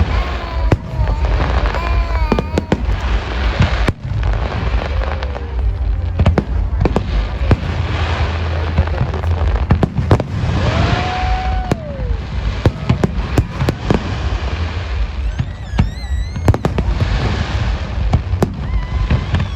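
Aerial fireworks display: a dense, continuous barrage of bangs and crackling over a low rumble, with a few brief whistling tones.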